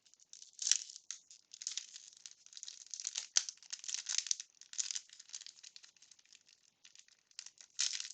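Baseball cards and their wax-paper pack wrapper being handled: irregular papery rustles, slides and flicks of card stock as the stack is sorted through.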